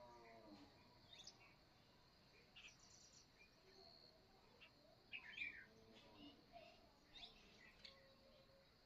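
Small birds chirping faintly: short, scattered calls and quick pitch sweeps from several birds.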